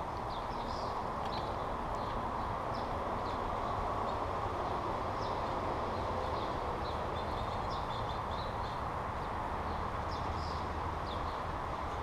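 Small birds chirping in short, high notes, many of them in quick runs, over a steady background noise.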